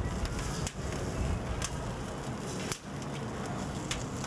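Newly lit kindling-wood fire crackling in the boiler firebox of a 1902 American LaFrance steam fire engine. Scattered sharp pops sound over a steady rushing noise.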